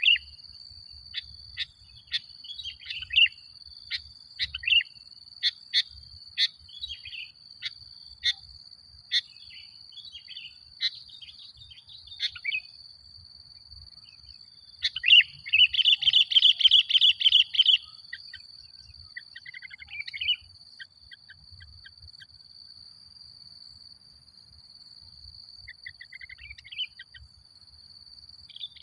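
Sooty-headed bulbul (kutilang) singing: sharp repeated chirps and short phrases, then a loud, rapid run of notes about halfway through, followed by a few sparser phrases. A steady thin high tone sounds underneath throughout.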